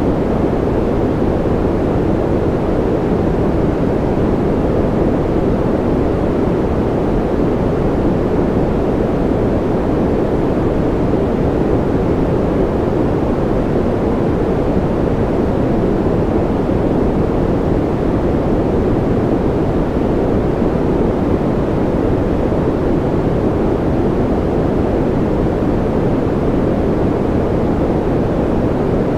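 Continuous generated noise of the kind sold as white noise for sleep: an even, deep rush with most of its weight low and little hiss on top, never changing.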